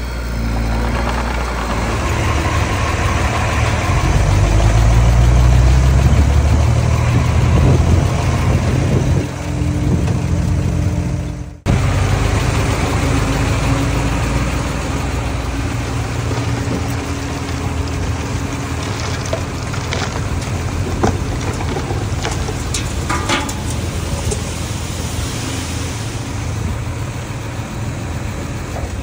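A small bulldozer's diesel engine running steadily, louder and heavier for several seconds early on as it works under load. There is a brief break in the sound about twelve seconds in, and a few short knocks in the second half.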